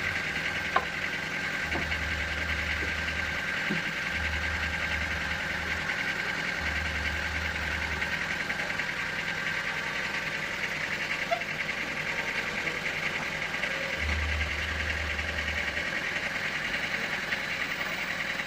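Sawmill machinery running steadily, with a constant high hum. A deeper rumble comes in and drops out four times, and there is a sharp click under a second in.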